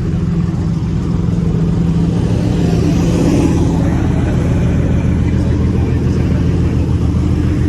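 Car engine idling steadily while it warms up, not yet revved.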